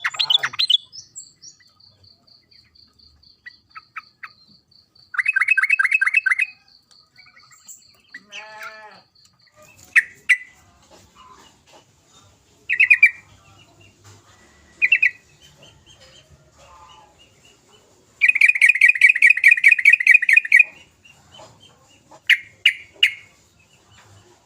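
Yellow-vented bulbuls calling: a rapid chattering trill about five seconds in, a longer one around eighteen seconds, and short single notes in between. A faint steady high pulsing tone runs through the first half.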